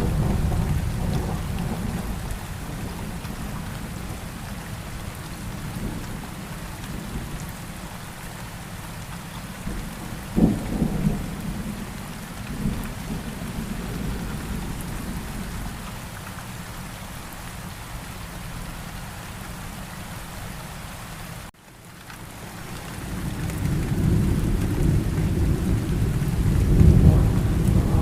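Steady rain with rolling thunder. A sharp thunder crack comes about ten seconds in, and a long low rumble builds near the end. The sound drops out for a moment about three-quarters of the way through.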